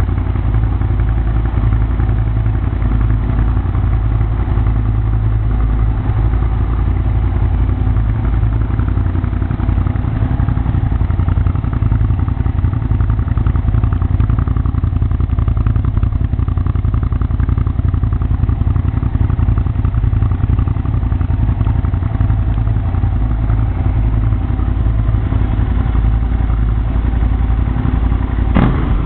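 Hyosung GT650R's V-twin engine idling steadily through a LASER Deeptone exhaust with its dB-killer baffle removed, giving a loud, deep exhaust note. Near the end the throttle is blipped once in a short rev.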